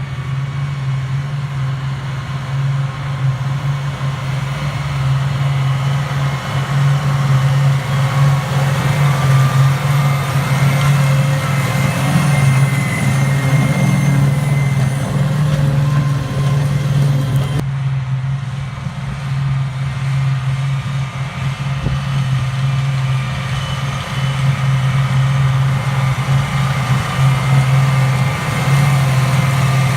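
New Holland tractor's diesel engine running steadily while working an Oxbo 2334 merger in the field: a constant low drone with a wash of machinery noise over it. About two-thirds of the way through, the sound changes abruptly and the high hiss drops away.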